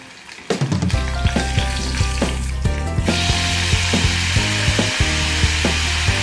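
Onions frying in hot oil in a pan, then a sudden, much louder sizzle about three seconds in as cubed raw potatoes go into the hot oil, and it stays loud.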